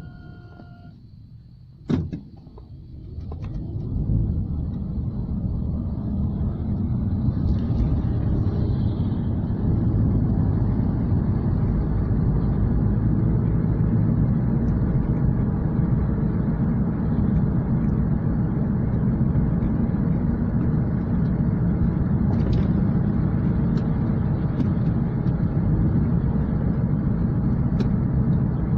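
Car cabin noise while driving: engine and tyre rumble picking up as the car gathers speed a couple of seconds in, then running steadily. A single sharp click comes just before the car picks up.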